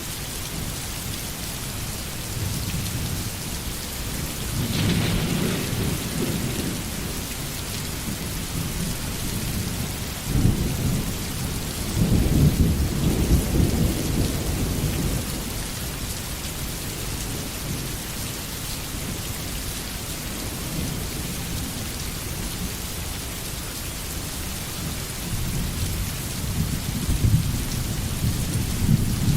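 Steady rain hissing, with low rolling thunder rumbling three times: once about five seconds in, again after a sharp crack around ten seconds in that runs into a longer rumble, and once more near the end.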